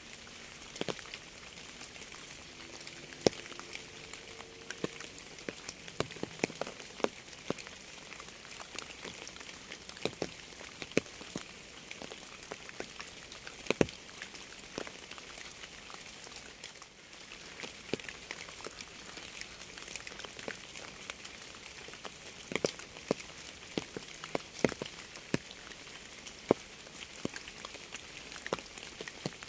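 Steady rain: an even hiss of rainfall with many individual drops ticking close by at irregular intervals.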